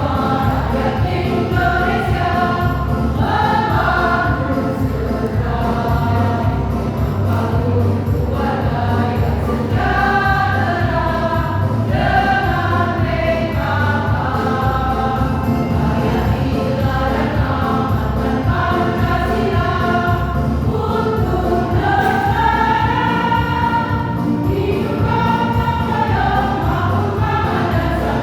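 A choir singing a song, with a steady low beat in the accompaniment.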